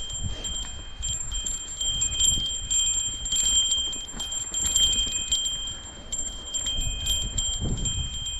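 Mountain bike descending a rough trail: low thumps and rattling clicks from the bumps, under a steady high ringing, as of a small bell jingling, that cuts out briefly a couple of times.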